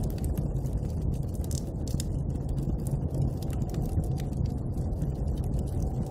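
Bonfire crackling with frequent small, irregular pops over a steady low rumble of storm wind.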